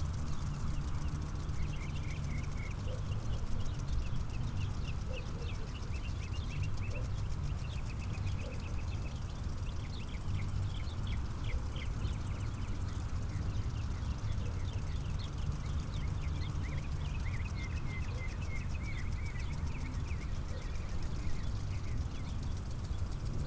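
Small birds chirping in quick runs of short notes, over a steady low rumble.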